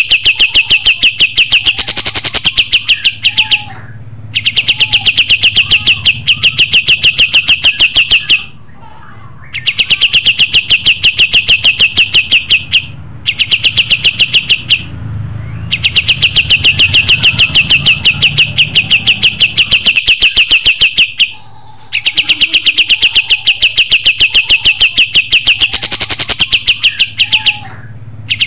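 Kapas tembak songbird singing a fast, rattling trill of rapidly repeated high notes in phrases of three to four seconds, with short pauses between. A louder, sharper note cuts in about two seconds in and again near the end.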